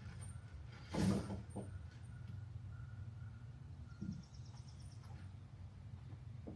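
Hand tools working on an engine bay: a sharp metallic clank about a second in, then a smaller knock followed by a brief run of fast light ticks around four seconds in, over a steady low hum.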